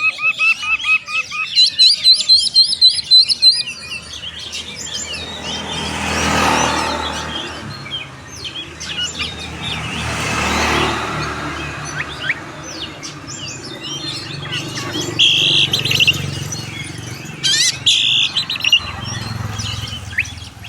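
Songbirds singing and chirping, opening with a fast run of repeated whistled notes, then many short chirps. A broad rushing noise swells and fades twice, around six and eleven seconds in.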